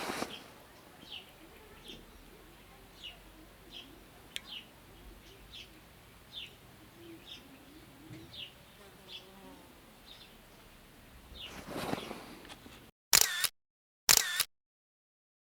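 A small bird gives short, faint, falling chirps, repeated irregularly, over quiet outdoor background. About 13 seconds in, the sound drops to dead silence, broken by a few short camera-shutter clicks spaced about a second apart.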